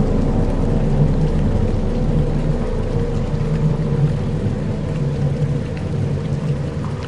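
Dark ambient soundscape: a low steady drone of held tones over a deep rumble, layered with a rain-like hiss.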